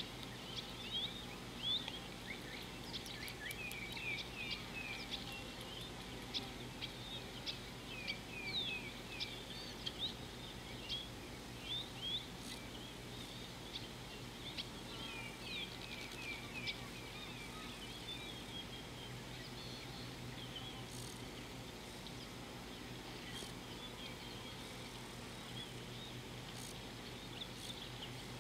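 Wild birds chirping: many quick short calls in rapid runs, busy for the first half and thinning out after about seventeen seconds, over a steady low hum.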